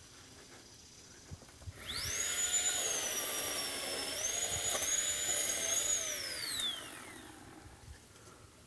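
Oregon 40 V PowerNow battery chainsaw's electric motor and chain whining up to speed about two seconds in. It runs at high speed for about five seconds with a brief sag in pitch midway, then winds down.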